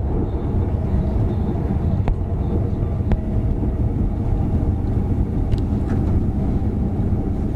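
Steady low rumble of a passenger train running along the track, heard from inside the carriage, with two sharp clicks about two and three seconds in.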